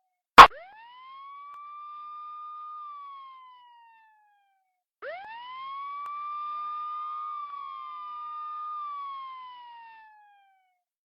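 Police car siren wailing in slow cycles: each sweep rises, holds a high note, then falls slowly, with a gap before the next. A sharp, loud click comes about half a second in.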